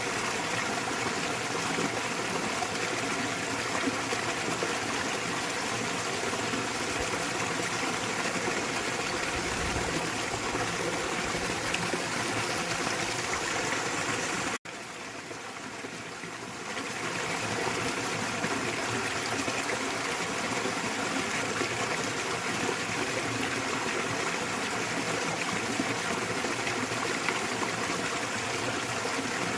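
Small waterfall in a mountain stream, water splashing and rushing steadily. About halfway through it cuts sharply, comes back quieter for about two seconds, then returns to full level.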